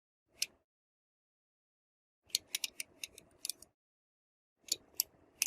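Sharp clicks and light clattering of the small hard parts of a model car being handled, in three short bursts with silence between them: a single click, then two quick clusters of clicks.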